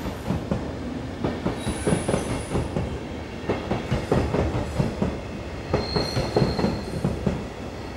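Passenger coaches of a long-distance international train rolling slowly past, their wheels clacking irregularly over rail joints and points, with a brief high wheel squeal twice.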